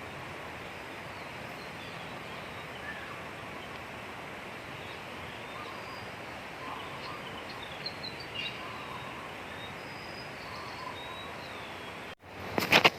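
Steady outdoor ambience, an even hiss, with faint short bird chirps scattered throughout. Near the end it cuts out abruptly and a much louder sound begins.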